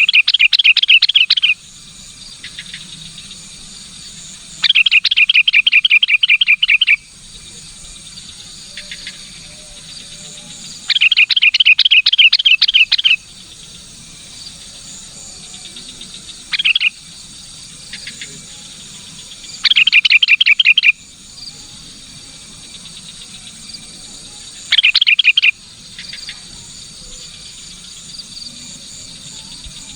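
Sooty-headed bulbul (kutilang) giving loud bursts of rapid, repeated chattering notes, about six bursts with pauses of a few seconds between them. A steady high buzz of insects runs underneath.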